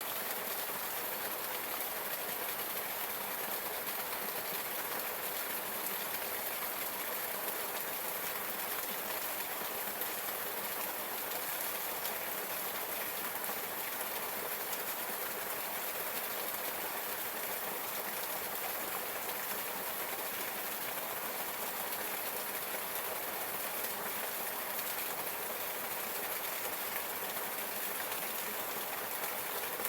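Waterfall: falling water rushing in a steady hiss.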